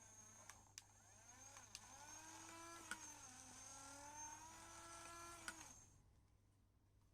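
Small electric gear motor of a battery-powered toy crane or excavator running, a thin whine that wavers and dips in pitch, with a few sharp clicks. It stops about six seconds in.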